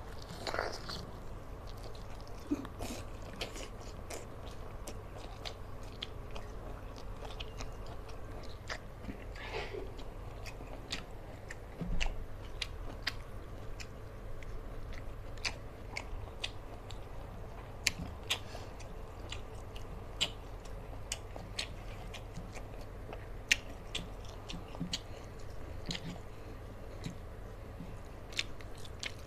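Close-up chewing and mouth smacking of a person eating rice and fried fish by hand, with many small sharp wet clicks scattered through, over a low steady hum.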